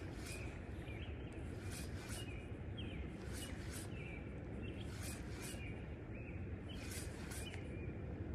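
A bird calling repeatedly in short chirps, roughly once a second with small gaps, over a steady low outdoor background noise.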